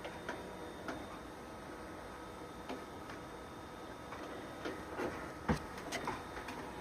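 Scattered light clicks and small knocks from a microphone boom arm being handled, with one sharper knock about five and a half seconds in.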